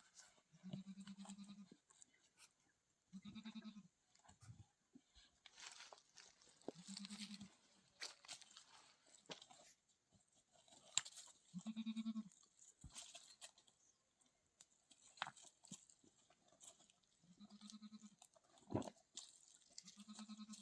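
Faint bleating of livestock, most likely goats: about six short, even-pitched calls a few seconds apart, with scattered crunching sounds in between.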